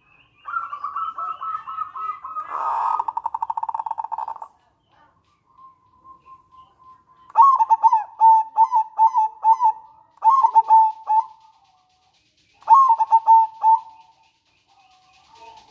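Local perkutut (zebra dove) calling in staccato cooing phrases: a run of short clipped notes, then a fast rattling trill (nretek) for about two seconds, then three more bursts of cooing notes (manggung).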